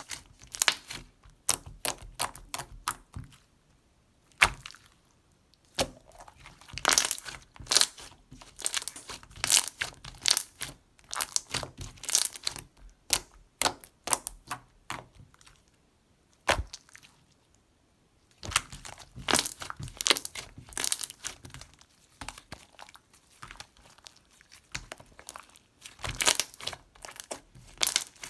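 Mixed water-jelly slime being pressed, poked and stretched by hand, making sharp clicks and crackling pops in bursts, with a few quiet pauses of a second or two.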